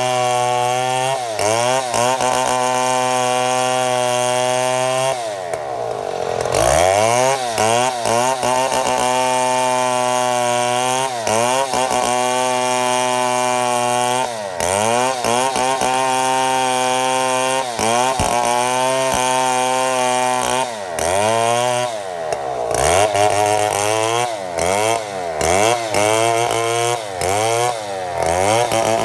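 Chainsaw mill running under load, ripping lengthwise through a mahogany log. The engine holds a steady high speed but dips in pitch and comes back up again and again as the chain bogs in the cut, most deeply about six seconds in and in quick succession near the end.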